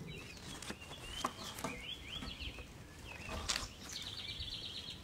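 Small songbirds chirping, with a fast trill lasting about a second near the end, over a few scattered faint clicks and rustles.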